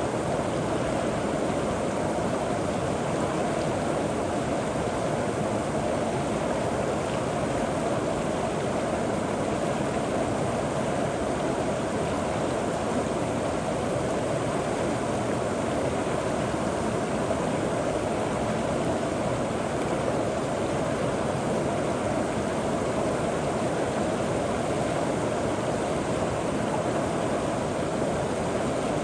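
River water flowing steadily over rocks and pebbles, an even rushing gurgle with no change over the whole stretch.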